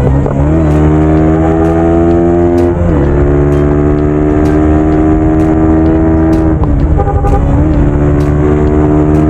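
Motorcycle engine running while riding, its pitch holding steady, then dipping and picking up again twice.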